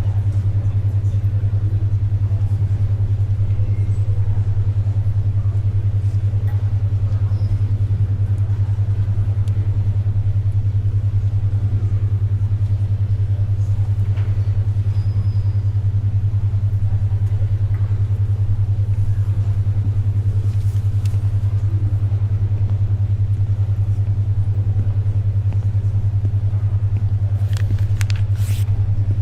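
Low humming tone that pulses rapidly and evenly: a 10.2 Hz alpha brainwave beat. Faint library ambience lies under it, with a few soft paper rustles, the loudest near the end.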